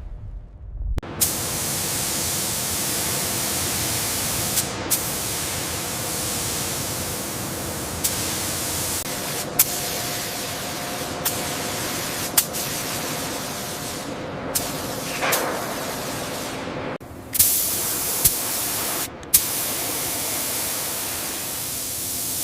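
Loud, steady hissing noise, with a faint low hum beneath it, broken by a few abrupt cuts and several sharp clicks.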